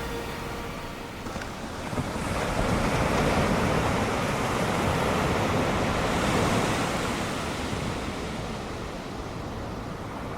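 Ocean surf from a typhoon swell: a wave breaks and washes in, building about two seconds in and slowly fading over the last few seconds.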